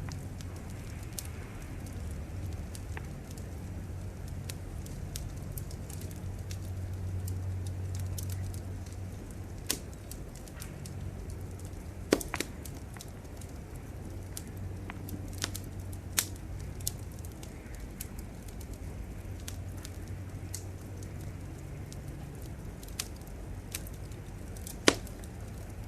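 Wood fire crackling, with scattered small snaps and a few loud pops, the loudest about halfway through and again near the end, over a steady low rumble.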